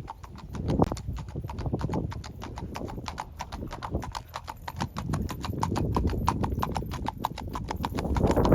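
Hoofbeats of gaited show horses moving on the rail, a quick, even run of sharp clip-clops.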